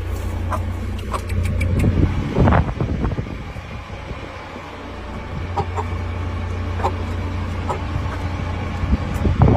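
Chickens clucking in short scattered calls over a steady low rumble.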